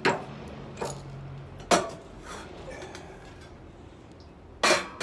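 Wood fire crackling, with a few sharp pops: one right at the start, one a little under a second in, a loud one just under two seconds in, and another near the end.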